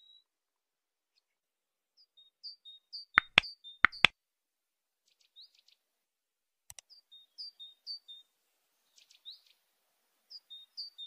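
A bird chirping repeatedly in short, high, falling notes. A quick run of four sharp, loud clicks comes about three seconds in, and a single fainter click follows a few seconds later.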